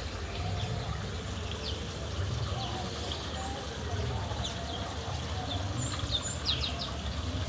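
White-eyes (pleci) giving short, high, down-slurred chirps, with a quick run of several about six and a half seconds in, over a low background rumble.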